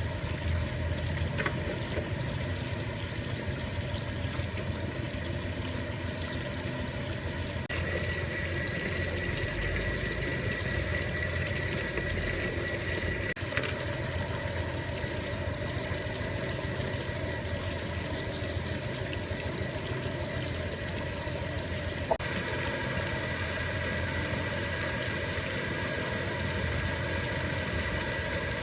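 A motor or machine running steadily, its sound shifting slightly about eight seconds in and again about twenty-two seconds in.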